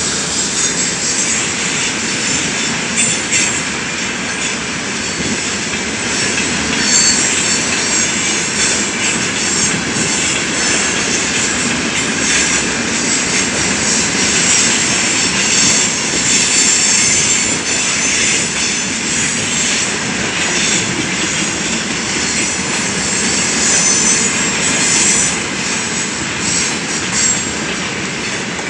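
Loaded tank wagons of a long freight train rolling past: a steady rush of steel wheels on rail with scattered clicks over the rail joints and brief high wheel squeals.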